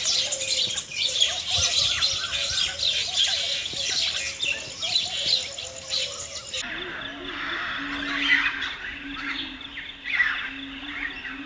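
Several songbirds chirping and singing in quick, overlapping high calls. About two-thirds of the way in, the recording changes abruptly, and a low note starts repeating under the chirps.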